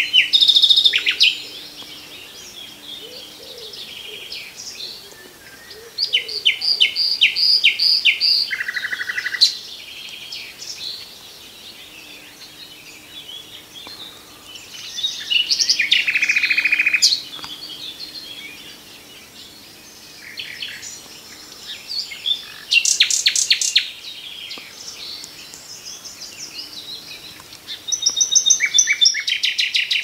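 Common nightingale singing: loud phrases of fast repeated notes and whistles, each a second or more long, with pauses of several seconds between them, about five phrases in all.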